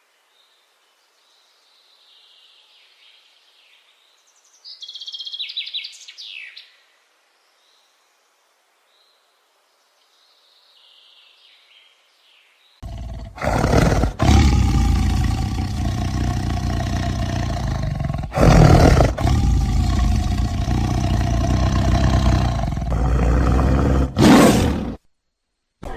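Small birds chirping faintly, then a big cat roaring and growling loudly and deeply for about twelve seconds, with several louder swells, before it cuts off.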